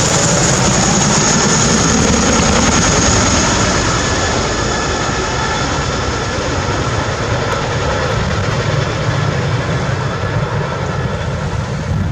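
Boeing CH-47 Chinook tandem-rotor helicopter passing low overhead, loud throughout: a deep pulsing rotor beat under a high turbine whine that slides slightly down in pitch as it goes by, easing a little after the first few seconds.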